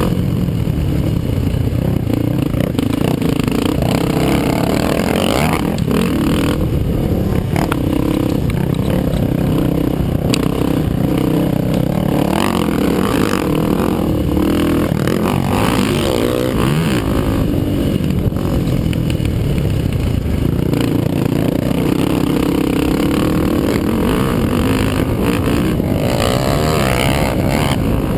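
ATV (quad) engines racing on a motocross track, revving up and down with rising and falling pitch, loud and continuous.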